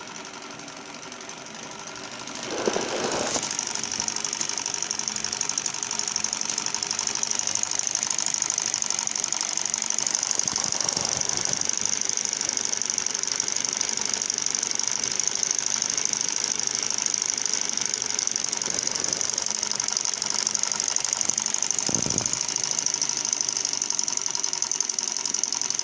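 Small Stirling engine running and driving a wooden automaton's mechanism: a rapid, steady mechanical clatter that grows louder about two and a half seconds in and then holds even.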